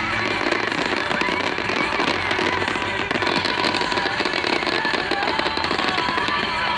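Fireworks going off in a display, a dense run of rapid crackles and pops over continuous show music.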